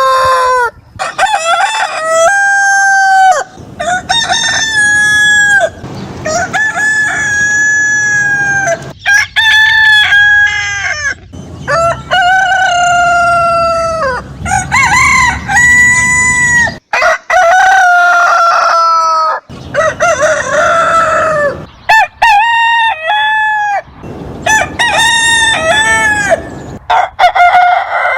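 Roosters crowing again and again: a dozen or so long crows, one after another, with short breaks between.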